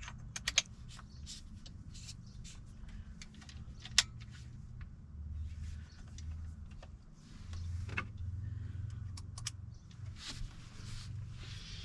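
Scattered light clicks and knocks from handling things during cabinet work. The loudest are a quick pair about half a second in and one sharp tap about four seconds in, over an uneven low hum.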